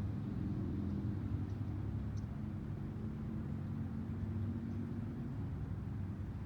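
Steady low rumble like distant road traffic, with a few faint, very short high chirps from small birds about a second and a half and two seconds in.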